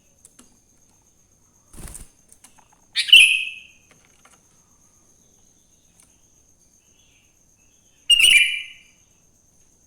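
Sooty-headed bulbul (kutilang) giving two short, loud calls about five seconds apart, each trailing off quickly. A soft thump comes just before the first call.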